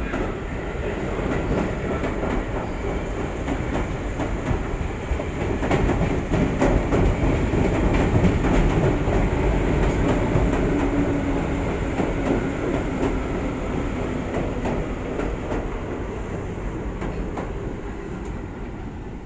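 Electric train running on the rails, its wheels clicking over the rail joints. The rumble grows louder toward the middle and then fades away.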